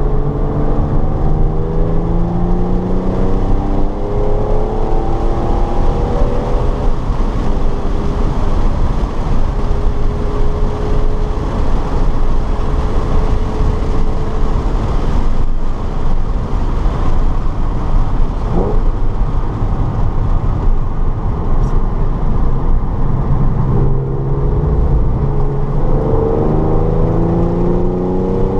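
Car engine under hard acceleration on a race track, its pitch climbing through the gears at the start and again near the end, holding a steady note in the middle. A constant rush of tyre and wind noise sits under the engine.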